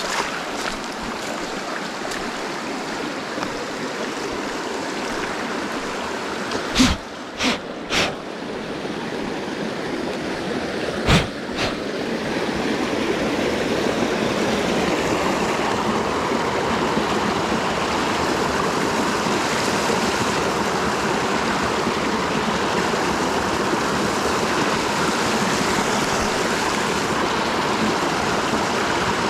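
Small mountain creek rushing steadily over rocks, with a few sharp knocks around the middle.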